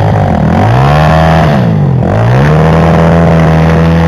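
Off-road motorcycle engine revved hard twice: it climbs, holds, drops briefly about two seconds in, then climbs and holds again. This comes as the bike is worked free of deep mud.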